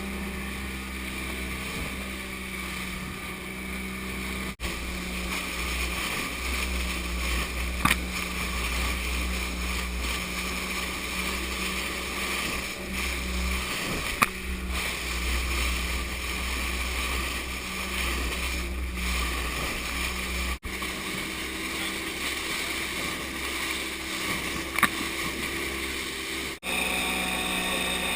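Motorboat engine running steadily under way, a constant drone with wind and water noise. There are a few short sharp knocks, and the sound breaks off abruptly at several edit cuts.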